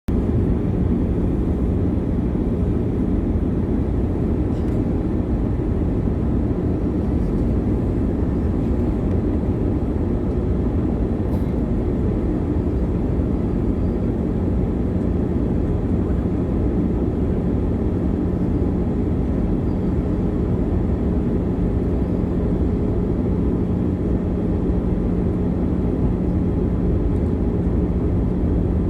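Steady cabin noise of a jet airliner in flight on descent: an even, low rumble of engines and rushing air with a faint constant hum, heard from inside the passenger cabin.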